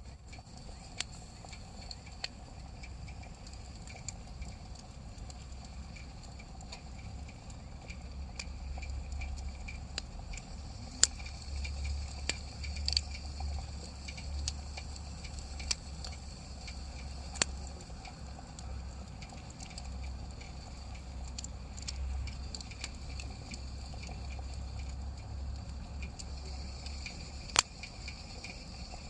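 Wood campfire crackling, with irregular sharp pops over a low rumble; the loudest pops come in the middle and near the end.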